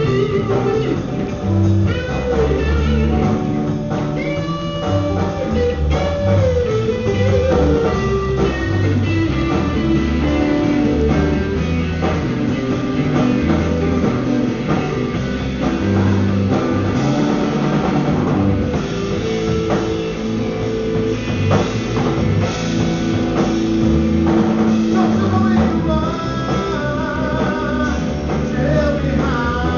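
Live rock band jamming: electric guitar, bass and drum kit playing, with a voice singing at times.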